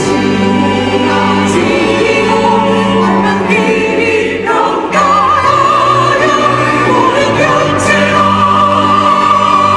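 Church choir singing an anthem. About four and a half seconds in there is a brief lull, after which a high held note with wide vibrato carries on.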